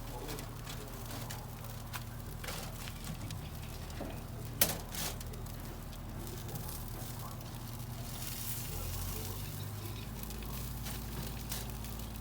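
Jerk chicken crackling and sizzling on an outdoor grill fire, with one sharp click about four and a half seconds in, over a steady low hum.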